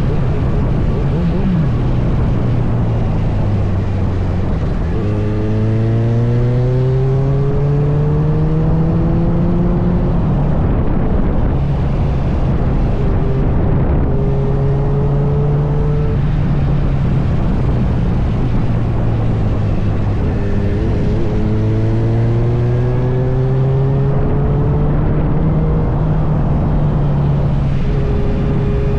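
Kawasaki Z900's inline-four engine running while riding, with a steady rush of wind over the microphone. The engine note climbs twice as the bike accelerates, about five seconds in and again about twenty seconds in, and holds steady in between.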